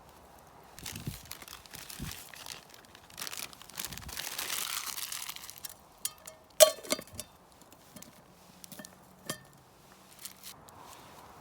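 Plastic packaging crinkling and tearing as it is handled and opened, followed by a few sharp clinks of hard objects being set down.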